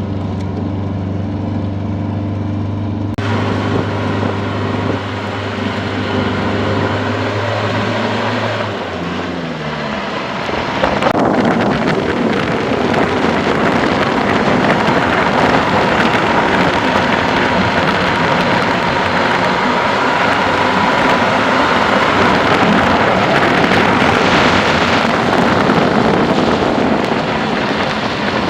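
A vehicle engine running with a steady low hum, which dies away about nine seconds in. From about eleven seconds a louder, steady rushing noise takes over.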